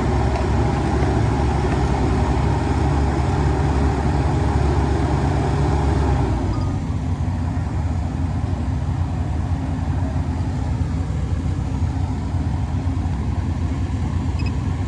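Heavy diesel engine of construction machinery running hard, then easing back to a lower, softer run about six and a half seconds in.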